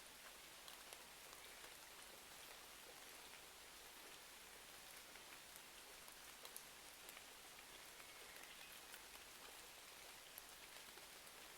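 Faint, steady rain hiss mixed with the light, scattered crackle of a wood fire: many small sharp pops at irregular moments.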